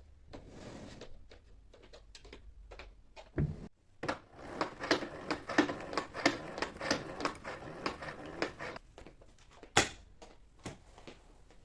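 Household cleaning sounds: a thump, then a few seconds of rapid clicking and scraping as things are handled, and one sharp knock about ten seconds in.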